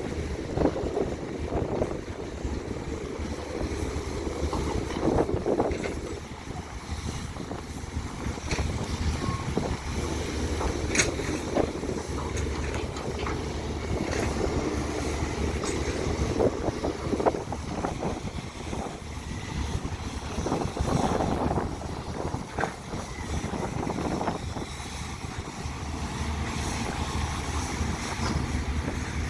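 Hydraulic excavator's diesel engine running with a steady low hum, with wind rushing on the microphone and a few sharp knocks now and then.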